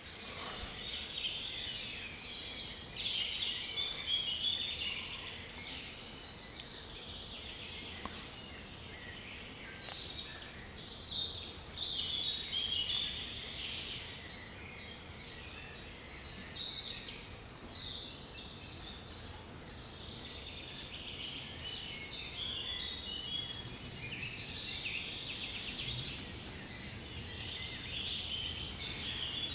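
Several wild songbirds singing at once, with overlapping short phrases and chirps throughout and a steady low outdoor background.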